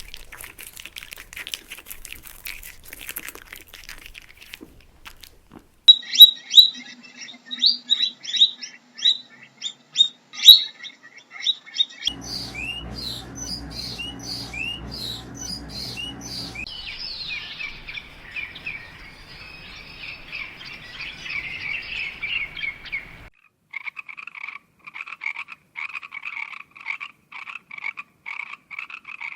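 Small birds chirping and peeping in rapid, repeated short calls, in several separate stretches that change abruptly every few seconds. A low steady hum lies under one stretch near the middle.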